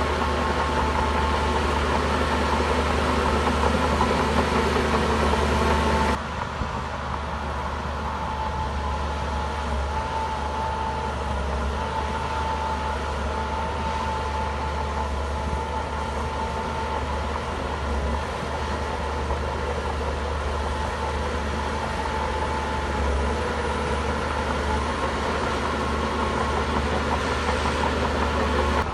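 Heavy diesel earthmoving machine running steadily with a deep hum and a whining tone over it. The sound changes abruptly about six seconds in, becoming a little quieter.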